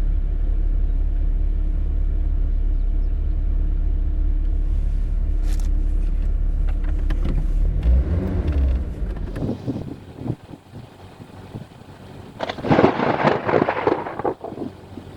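Vehicle road and engine noise, a steady low rumble, which stops about nine and a half seconds in. Near the end comes a loud crackling rush of wind noise on the microphone.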